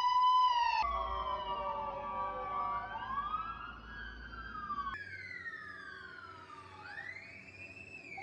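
Electronic police siren of a toy police patrol car. It opens with a short steady tone, then wails in slow glides that fall and rise in pitch, growing fainter toward the end.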